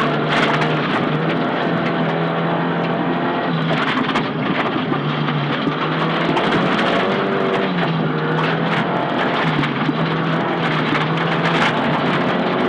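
Nissan Silvia S15 rally car's engine at speed, heard from inside the cabin. The note holds, then dips and climbs again several times with the gear changes, over heavy road and tyre noise and frequent sharp knocks.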